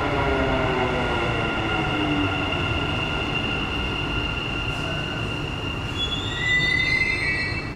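A Dubai Metro train running, its electric motor whine falling slowly in pitch as it slows over a steady rumble. A high-pitched squeal from the wheels or brakes sets in about six seconds in. The sound cuts off abruptly at the end.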